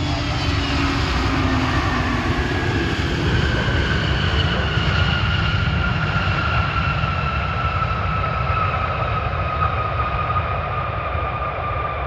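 Jet airliner engines running: a deep rumble under a whine that slowly falls in pitch.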